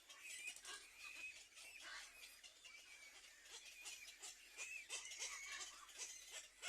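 Faint, continual high-pitched bird chirping, with many small ticks mixed in.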